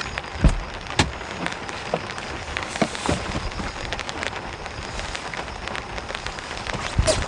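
Heavy rain falling steadily, with many sharp taps of drops striking a surface; a few louder taps stand out about half a second in, a second in and near the end.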